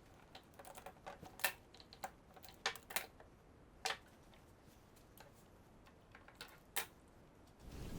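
Scattered, irregular light clicks and taps of small hard objects being handled, a dozen or so with uneven gaps; a low steady noise comes in near the end.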